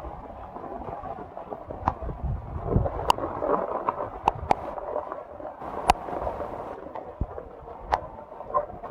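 Heavy rain falling as a steady wash of noise, with several sharp taps of drops striking a hard surface.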